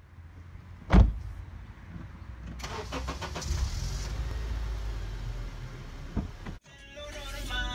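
Car engine cranked and started, then running at a steady low idle; a single loud thump comes about a second in, before the start. Music begins near the end.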